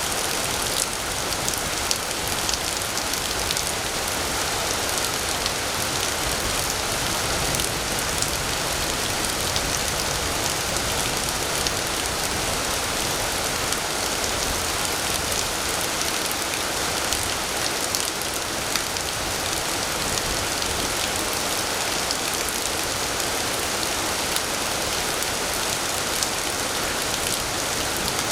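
Heavy rain falling steadily, with a dense patter of drops hitting surfaces.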